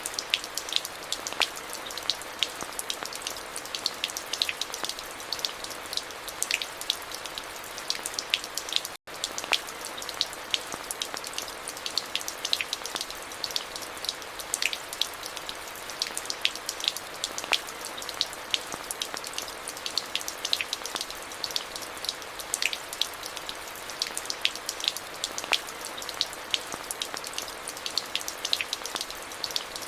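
Steady rainfall with many close individual drops ticking irregularly over an even hiss. The sound cuts out for an instant about nine seconds in, then carries on unchanged.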